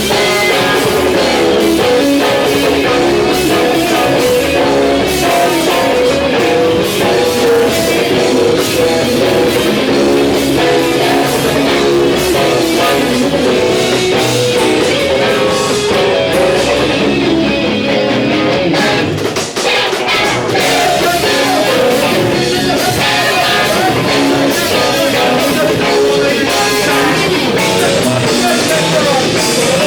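Rock band playing: electric guitars and drum kit, with singing.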